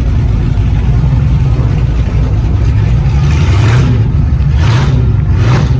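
A vehicle engine running with a loud, deep, steady rumble. Three short rushing noises come near the end.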